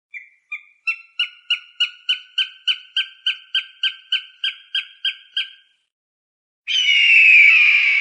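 Hawk calling: a rapid series of about eighteen sharp, evenly spaced notes, roughly three a second, then after a short pause one long, loud, falling scream near the end.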